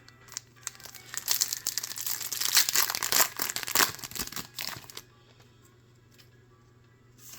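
Foil Pokémon booster pack wrapper being torn open and crinkled, a dense crackling rustle that stops about five seconds in.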